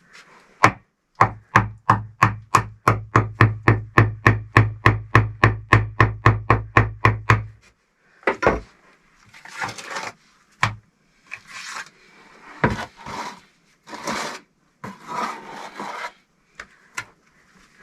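Rapid, even hammering, about two dozen hard strikes at roughly four a second, each with a low thud. It is followed by irregular scraping and rubbing.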